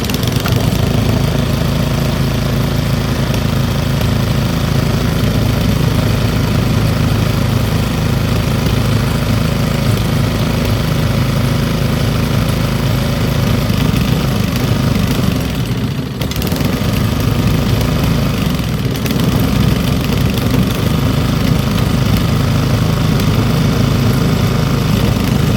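Old Briggs & Stratton single-cylinder small engine running steadily, with a brief dip in level about fifteen seconds in.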